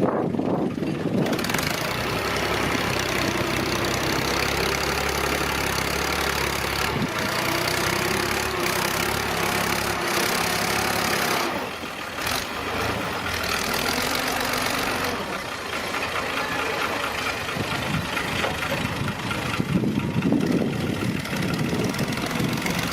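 Tractor engine running steadily under work, dipping briefly about halfway through and then settling at a changed pitch.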